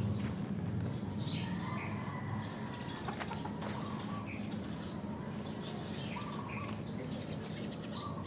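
Birds calling outdoors: short, repeated chirps every second or so over a steady low rumble.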